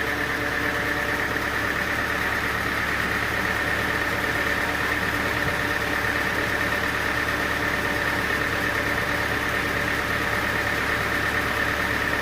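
Sawmill machinery running steadily without a change in load: a constant engine-like hum with a steady high-pitched whine over it.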